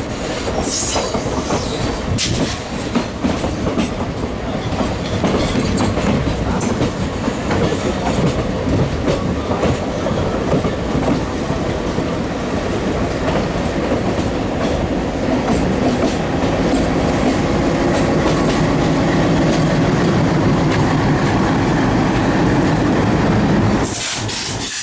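A moving passenger train heard from on board: a steady rumble of wheels on the rails, with scattered clicks and clatter from the track. The sound drops off sharply just before the end.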